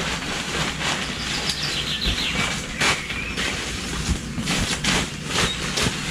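A bird flapping its wings in a series of irregular beats and rustles, loudest about three seconds in: a wild chicken struggling in the trap.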